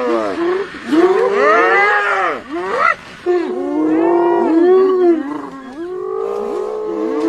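A group of spotted hyenas calling at once, several overlapping wailing calls that rise and fall in pitch, with a short break about three seconds in.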